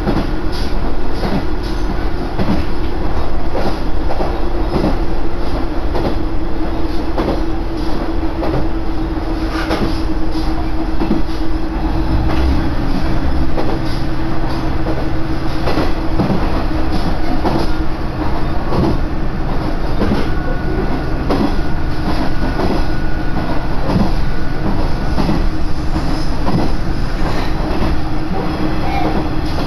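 Koumi Line railcar in motion, heard from inside the carriage: a steady droning tone and running noise, with frequent irregular clacks of the wheels over the rail joints.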